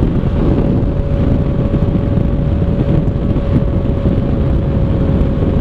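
Yamaha FZ-09's three-cylinder engine running at a steady cruise through an Arrow exhaust with the dB killer removed, holding an even note, with wind rush on the microphone.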